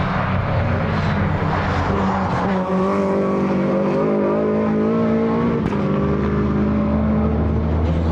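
Time-attack race car engine running hard on the circuit, its pitch holding fairly steady with small rises and dips.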